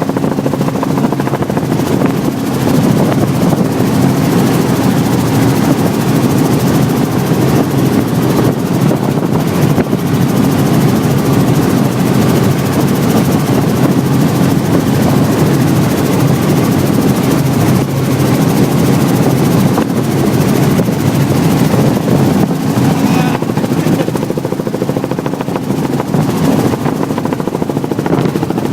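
Helicopter rotor and engine running steadily in flight, heard from on board as one loud, unbroken drone.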